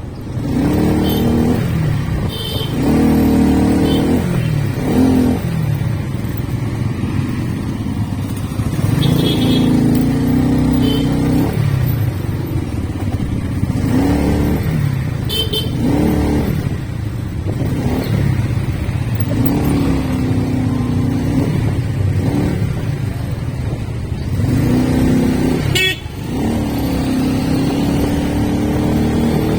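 Motorcycle engine running on the move, the engine note climbing and falling again and again as the rider accelerates and eases off. A few short horn toots sound along the way, about a third of the way in, around the middle and near the end.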